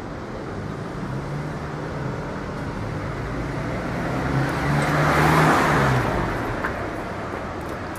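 Street traffic: a car passing, its engine hum and tyre noise swelling to a peak a little past halfway and then fading.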